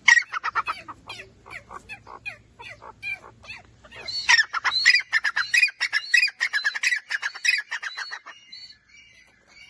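Teetar (francolin) calling in a rapid run of harsh repeated notes, about eight to ten a second. The calls grow loudest in the middle and stop shortly before the end.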